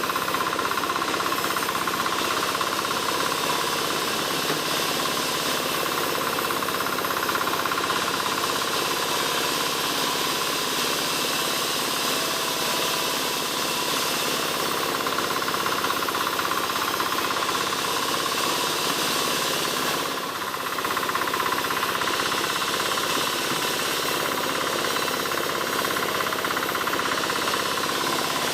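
Motorised saw running steadily under load while cutting albasia wood into roof battens, with a brief dip about twenty seconds in.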